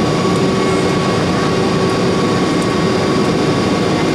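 Boeing 717 jet airliner in flight, its Rolls-Royce BR715 turbofans and the rushing air making one steady, unchanging noise with a few constant hums in it.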